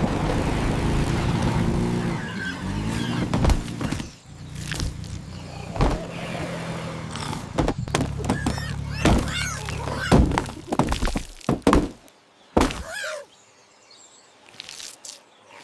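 A motor vehicle engine hums steadily, then stops about four seconds in. After that comes a series of sharp thuds and knocks with high wavering calls between them.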